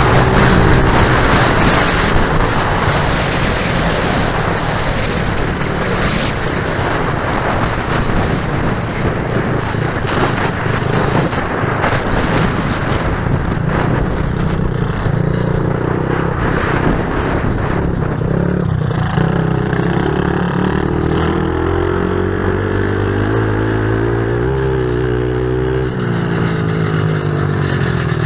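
Pit bike engines running and revving, their pitch rising and falling repeatedly in the second half, over a constant noisy rush.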